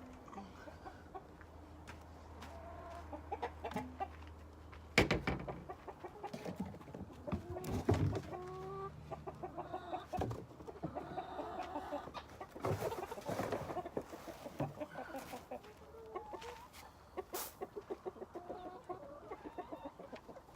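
Flock of backyard chickens clucking and calling in many short, overlapping calls, with a couple of sharp knocks, the loudest about a quarter of the way in.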